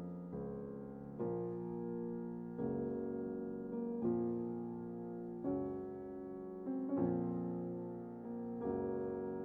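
Slow, soft piano music: sustained chords struck about every second and a half, each fading before the next.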